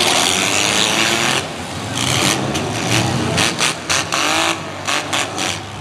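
Several mid-size demolition derby cars' engines revving and running at once, their pitch rising and falling as the cars accelerate and back up across the arena.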